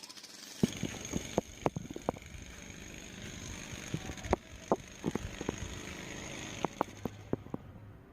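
Outdoor ambience picked up by a phone's microphone while recording video: a steady background hum of traffic, broken by irregular sharp clicks and knocks.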